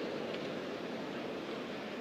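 Steady, even background hiss: room tone in a pause between spoken phrases.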